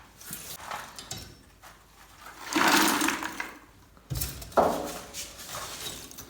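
Scraping and clinking of metal against the ash and debris in a wood-burning fireplace as it is cleaned out. A longer scrape comes about two and a half seconds in, and a couple of sharp knocks follow about a second later.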